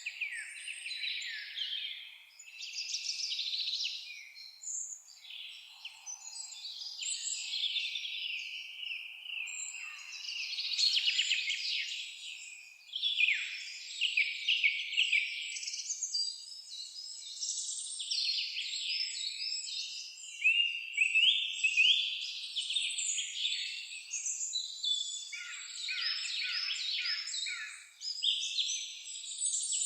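Several songbirds singing at once: a dense, continuous chorus of high chirps, whistles and rapid trills, with no pause.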